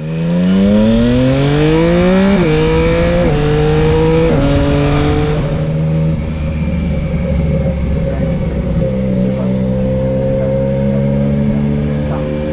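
Yamaha Tracer 900 GT's three-cylinder engine through an SC-Project straight-pipe exhaust, accelerating hard: the pitch climbs and drops back with four quick upshifts about a second apart. It then settles into a steady cruise, rising slightly near the end.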